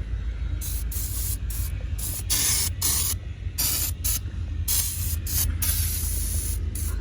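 Aerosol can of Gunk engine degreaser spraying in a quick series of short spurts, about a dozen, one of them held for about a second near the end.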